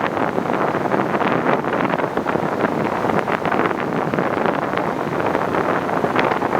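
Wind buffeting the microphone in irregular gusts over the steady rushing noise of a high-speed catamaran ferry under way.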